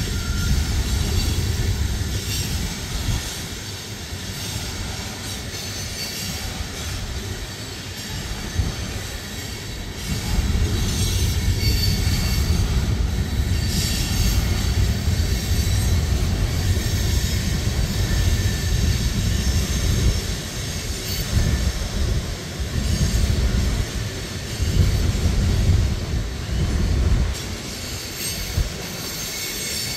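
Loaded freight train of hopper cars rolling past, a steady low rumble with steel wheels squealing in thin high tones over the rail clatter. It grows louder about ten seconds in.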